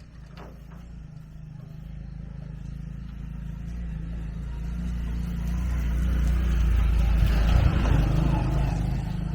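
An engine running steadily and growing louder over several seconds.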